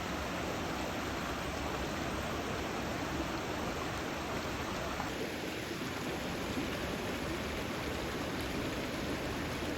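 Steady rushing of a stream, an even noise of running water with no breaks.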